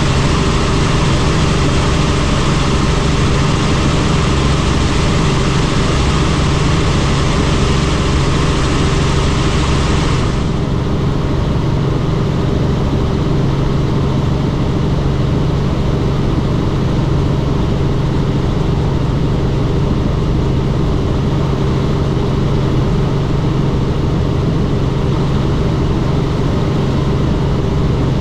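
Helicopter in flight: a steady, loud drone of engine and rotor. About a third of the way in, the hiss in the upper range drops away suddenly, leaving a duller drone.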